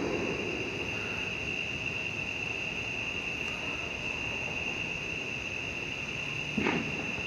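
Night insect chorus, crickets trilling steadily at one high pitch. The rumble of a firework dies away at the start, and a faint distant firework pop comes near the end.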